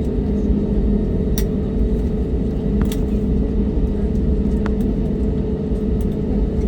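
Jet airliner cabin noise on the ground before takeoff: a steady low rumble with a constant hum, and a few faint clicks.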